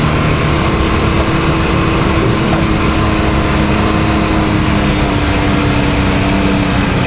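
Can-Am Maverick X3 side-by-side's turbocharged three-cylinder engine running under way at fairly steady revs.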